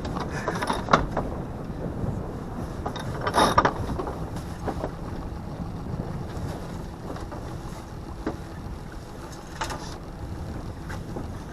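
Steady low wind and water noise aboard a sailboat under way, with a few knocks and a brief louder rustle about three and a half seconds in.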